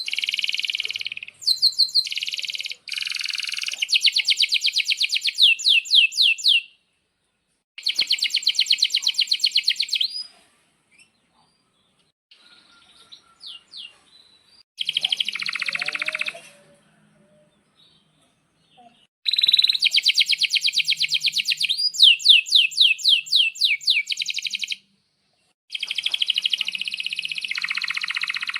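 Male domestic canary singing long, rapid rolling trills and chirps. The song comes in five phrases of one to six seconds each, with short silent pauses between them.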